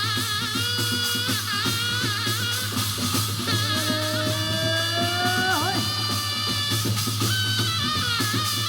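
Korean shamanic ritual (gut) music: a melody that wavers and bends in pitch, with a sharp dip about five and a half seconds in, over steady dense drumming and percussion, with a constant low hum underneath.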